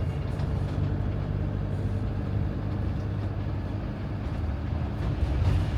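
Motorhome driving along the road, heard from inside the cab: a steady low rumble of engine and road noise.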